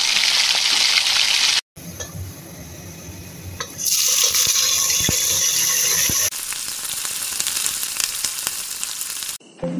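Food sizzling in hot oil in a pan, first a whole pomfret fish frying, then a tomato and green chilli masala, in short clips that cut abruptly. There is a brief dead-silent gap about two seconds in, and the sizzle level jumps at each cut.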